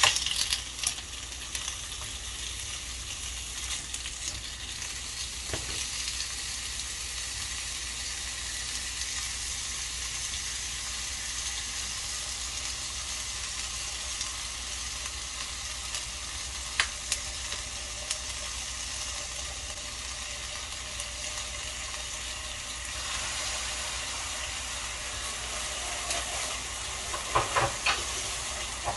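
Beef steaks and vegetables sizzling steadily on a hot ridged grill pan, with a few light clicks here and there and a short cluster of them near the end.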